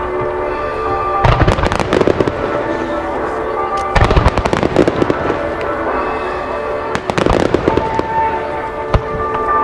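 Large aerial firework shells bursting in three clusters, about a second, four seconds and seven seconds in, with crackling after the bursts. Music plays through loudspeakers throughout.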